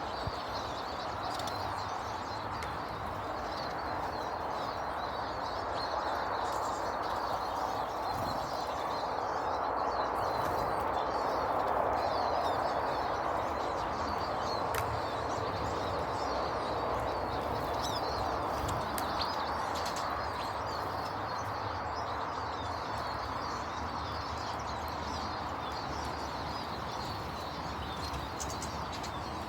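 Small garden birds chirping and twittering continually, over a steady background rush.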